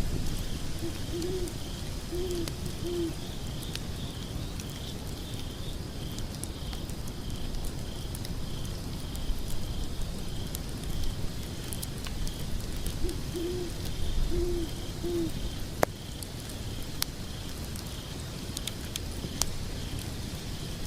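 Log fire crackling with scattered sharp pops over a low rumble, while an owl hoots twice in runs of three short low notes, about twelve seconds apart. A cricket chirps steadily throughout.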